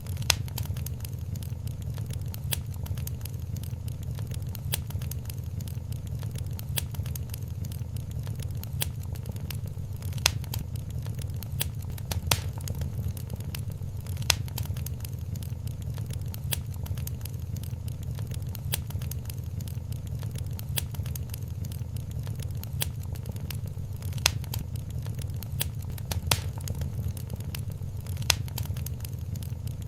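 Wood fire burning in a fireplace: frequent small crackles and a handful of louder sharp pops over a steady low rumble of the flames.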